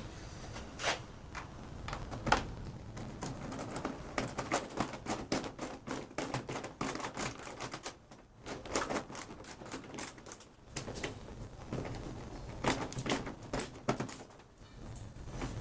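Ratchet socket wrench clicking in rapid runs as bolts on a washing machine are tightened one after another in a criss-cross order, with short pauses between bolts.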